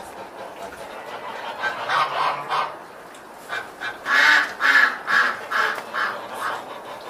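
Domestic fowl calling: a cluster of calls about two seconds in, then a run of about eight repeated calls, loudest in the middle.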